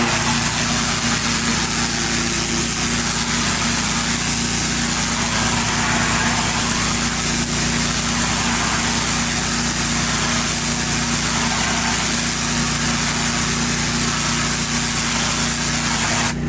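Gas-engine pressure washer running steadily while the high-pressure water spray hisses. The spray cuts off suddenly near the end, leaving the engine running on.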